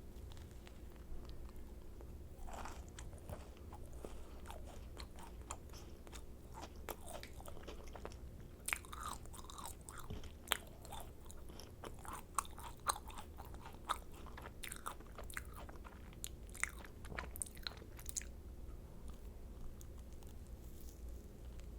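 Close-miked chewing of macarons: the crisp shells crackle and crunch between the teeth in quick sharp snaps, thickest in the middle stretch, with softer chewing before and after.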